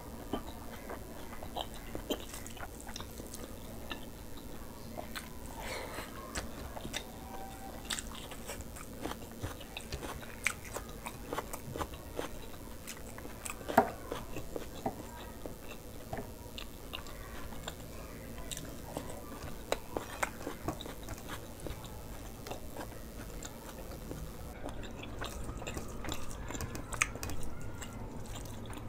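Close-miked chewing and mouth smacking of hand-eaten mouthfuls of rice and mutton curry, with occasional crunches and fingers working the rice on the plate. One sharp knock stands out about fourteen seconds in.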